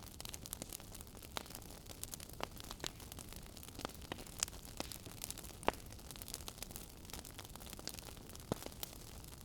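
Wood fire crackling in a fireplace: irregular sharp pops and snaps, several a second, over a steady low hiss, with one louder snap a little past halfway.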